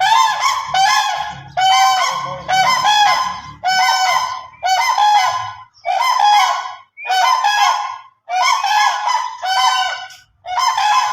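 Cranes calling: a string of about a dozen loud calls, each lasting about a second, coming one after another with short gaps and several voices overlapping.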